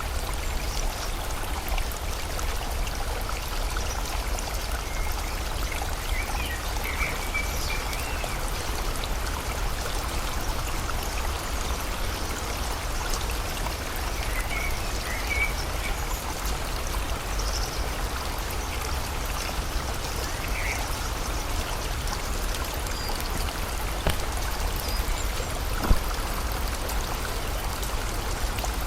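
Steady rush of a flowing river with rain, and a few short bird chirps now and then. One sharp tap near the end.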